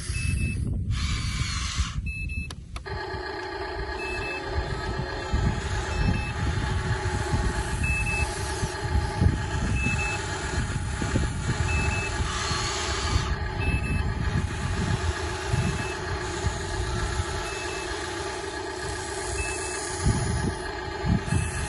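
Toy RC construction vehicle's reversing beeper, a short high beep about every two seconds, over a steady electric motor hum that starts about three seconds in after a click, with low rumbling throughout.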